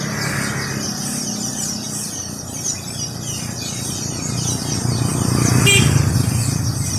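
A flock of Eurasian tree sparrows chirping continuously in a tree, while a motor vehicle passes, its engine growing loudest near the end.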